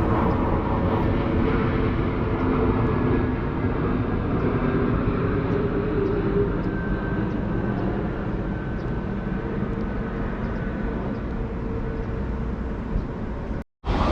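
Steady rumble of a passing train, with a faint motor whine held over it. The sound drops out completely for a moment near the end.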